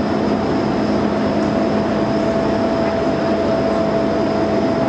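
Steady roar of a flood-swollen river's fast, high water rushing past, with a faint steady hum running through it.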